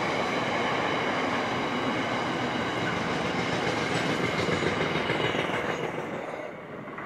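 Freight train's container wagons rolling past on steel rails: steady wheel-on-rail rolling noise with a high, steady whine over it. The sound fades away about six seconds in as the last wagon passes and recedes.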